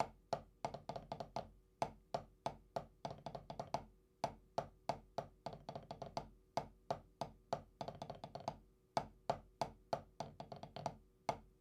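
Drumsticks playing repeated nine-stroke closed (buzz) rolls: quick, sharp taps several a second, bunched in uneven groups. It is a beginner's rough approximation of the rudiment.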